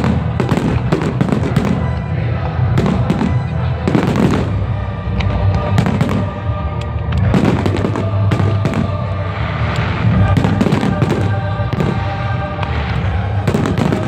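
Fireworks going off in rapid succession, sharp bangs and crackles throughout, over loud music with sustained tones played for the display.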